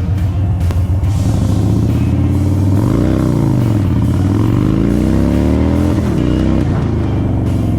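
Indian Chief Bobber's Thunderstroke 116 air-cooled V-twin engine under way, its revs climbing to a peak about three seconds in, falling away, then climbing again and dropping near the end.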